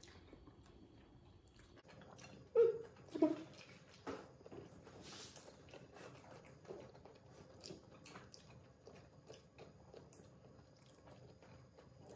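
Faint close-up chewing and mouth sounds of people eating lobster meat, with light clicks scattered through; two louder short mouth sounds about two and a half and three seconds in.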